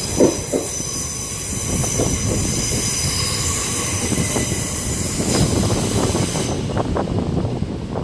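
A Southern Class 377 electric multiple unit running through the station without stopping. Its wheels click and thump over the rail joints under a high steel-wheel-on-rail hiss and squeal, which cuts off about six and a half seconds in as the last coach passes.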